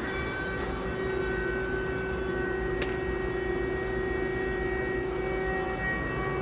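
Steady machine hum made of several unchanging tones, with one sharp click about three seconds in.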